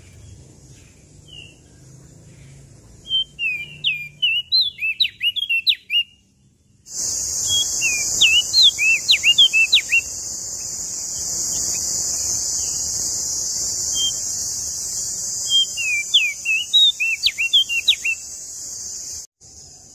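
A prenjak daun (leaf warbler) singing three phrases of quick, high whistled notes that sweep up and down. A steady hiss in the background starts abruptly about a third of the way in and cuts off suddenly near the end.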